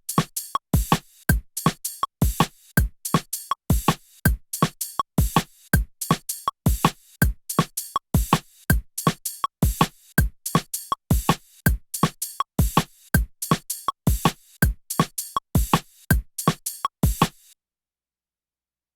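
Drum and bass beat from a Teenage Engineering OP-XY drum machine: a steady pattern of deep kicks and sharper high hits that cuts off suddenly near the end.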